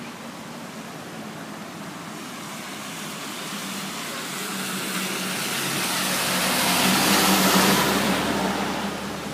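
Steady rush of a flooded brook, with a car passing: its sound builds for several seconds, is loudest about seven to eight seconds in, then fades.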